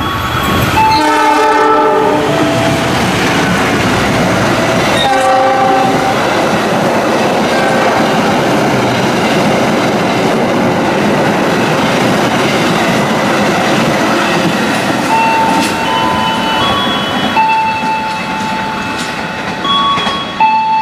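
KAI CC206 diesel-electric locomotive sounding two blasts on its multi-tone horn as it runs through the station without stopping, followed by the rush and clickety-clack of its passenger coaches passing at speed. Near the end, a few held tones change pitch in steps.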